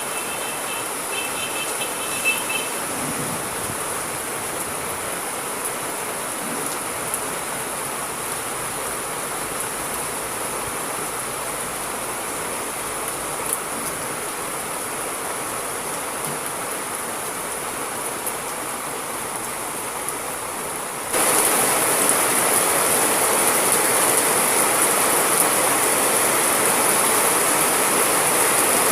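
Steady rain, an even hiss of falling water, that turns suddenly louder and brighter about three quarters of the way through.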